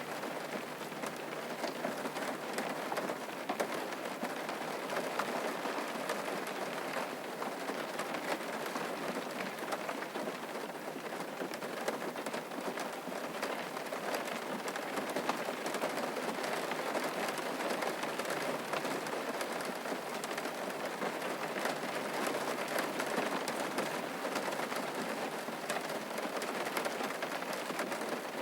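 Steady rain falling on a surface, a dense, even patter of drops.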